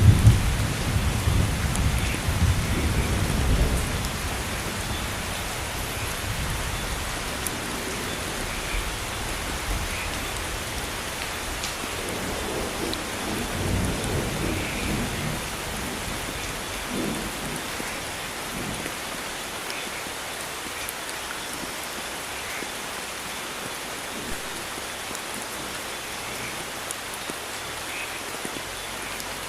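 Steady heavy rain with thunder: a loud low rumble in the first few seconds that dies away, a softer rumble about halfway through, then rain alone.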